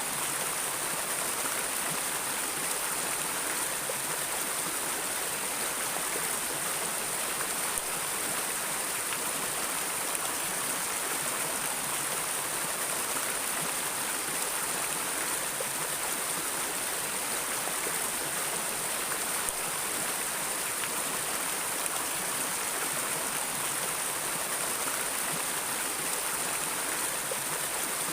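Flowing stream water rushing and splashing steadily, a continuous even hiss with a bright high edge.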